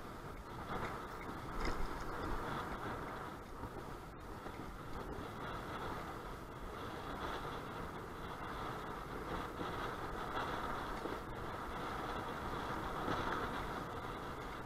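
Strong wind gusting, a steady noisy rush with a low rumble on the microphone that swells and eases every few seconds.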